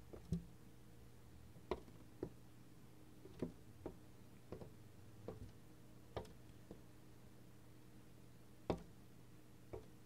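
A bird striking the window glass with its beak and body, about a dozen sharp, irregular taps with short gaps between them. This is the behaviour of a territorial bird attacking its own reflection.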